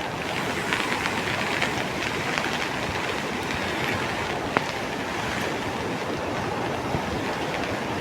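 Steady rushing of a rain-swollen river in flood, an even churning water noise with a few scattered clicks.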